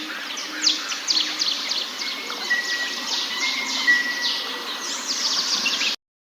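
Forest birds chirping together: many quick, high, downward-sweeping chirps, with a thin steady whistle held for a couple of seconds midway. The sound cuts off abruptly near the end.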